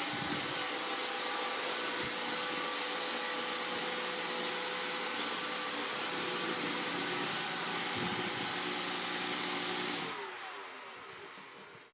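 Roomba robot vacuum running, a steady whir and hiss from its vacuum fan and brush motors. About ten seconds in the motors spin down, falling in pitch and fading.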